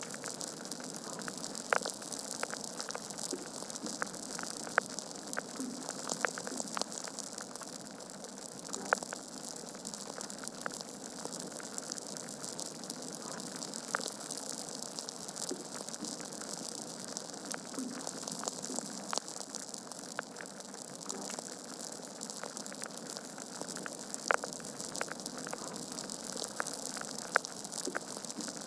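Wood fire burning in a fireplace: a steady soft hiss with irregular sharp crackles and pops from the logs, a few of them louder.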